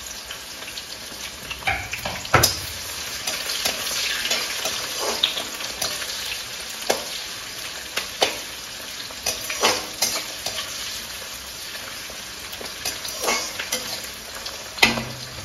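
Sliced onions and dried red chillies sizzling in hot oil in a metal kadhai, stirred with a slotted metal spatula that scrapes and knocks against the pan now and then.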